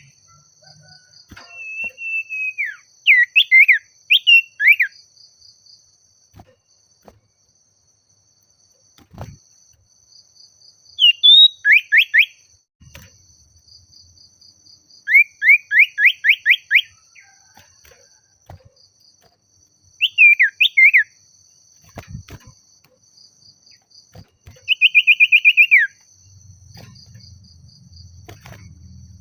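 Common iora singing: bursts of loud whistled notes and quick runs of repeated down-slurred notes, phrase after phrase every few seconds with short pauses between.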